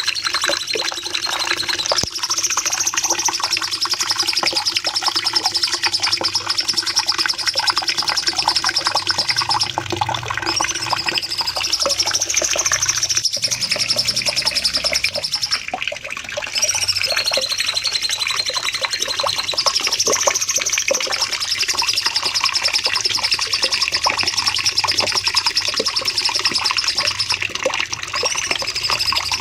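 Cucak cungkok singing long, high-pitched rapid trills of several seconds each, broken by short pauses: the long 'nembak' song used for training other songbirds.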